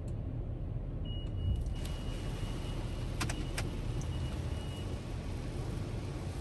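Pickup truck's V8 engine running with a steady low rumble, with a thin high steady tone lasting a few seconds and a couple of sharp clicks about three seconds in; a hiss rises about two seconds in.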